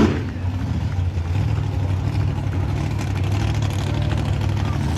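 Monster truck engine running steadily at one low, even pitch.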